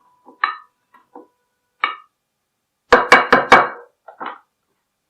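Knocks and clicks as a dish is put into a microwave oven and the oven is set: a few light clicks, then four loud knocks in quick succession about three seconds in and two softer ones after.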